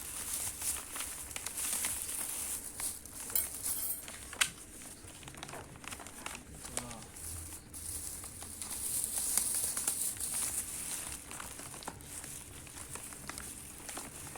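Crinkling and rustling of paper and plastic food wrappers being handled and opened, with scattered small clicks and taps. A steady high hiss runs underneath and grows louder about nine seconds in.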